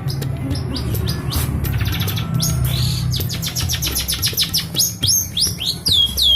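Long-tailed shrike chirping: scattered short notes, then a fast run of quick chirps from about halfway in, and a few downward-sweeping calls near the end.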